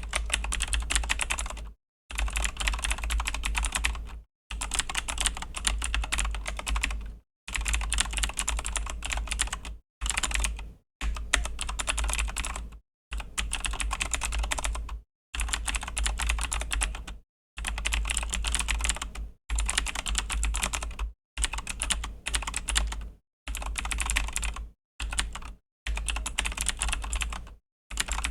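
Typing on a Razer BlackWidow V3 mechanical keyboard with Razer Green clicky switches: a fast, dense clatter of key clicks. It comes in runs of about two seconds, each broken by a brief silent pause.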